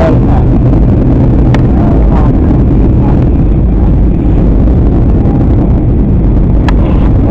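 Steady, loud drone of a jet airliner's engines and rushing air heard inside the passenger cabin, with two faint clicks.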